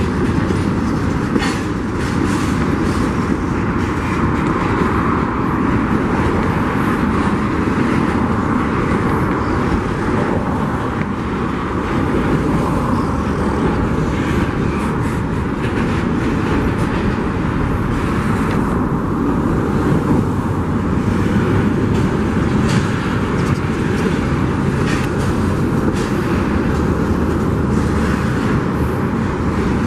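Union Pacific freight train's cars rolling past, a steady loud rumble and rattle of wheels on rail with scattered clicks.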